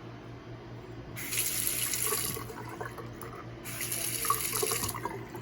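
Bathroom sink faucet turned on twice, water running into the basin for about a second each time.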